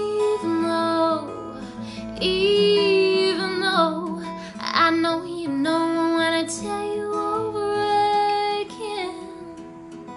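A woman singing long held notes over an acoustic guitar accompaniment.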